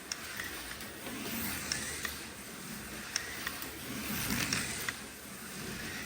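A 1/32 scale slot car running laps on a track: the small electric motor and tyres whir, swelling as the car passes and fading away again, with a few sharp clicks.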